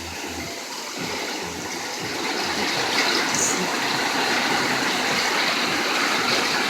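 Rain and running rainwater: a steady rushing hiss that builds a little over the first couple of seconds and then holds.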